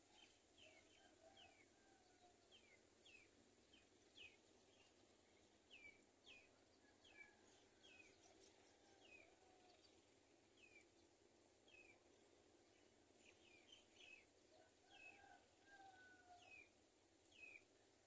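Faint birdsong: a bird repeats short chirps that fall in pitch, about one or two a second, with softer warbling notes lower down now and then.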